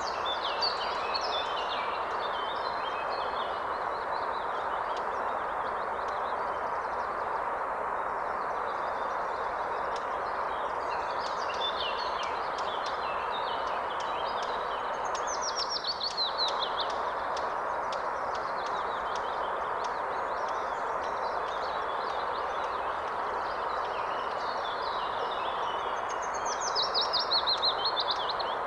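River water running steadily, with several songbirds singing over it. A loud descending trill comes about 15 seconds in and again near the end.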